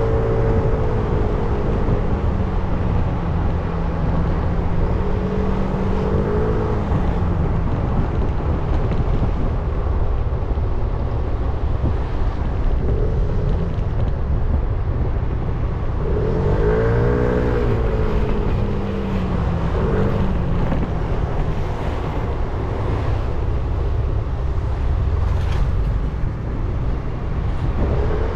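300 cc motorcycle engine running under way over a heavy low rumble. A little past halfway the engine pitch rises and falls again as the throttle is opened and closed.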